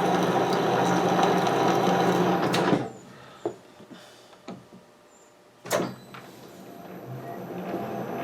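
Metal lathe running during a thread-cutting pass, then stopped sharply with a loud clack; a few light clicks follow in the lull, another clack comes near the six-second mark, and the lathe starts up again and gradually comes back up to speed.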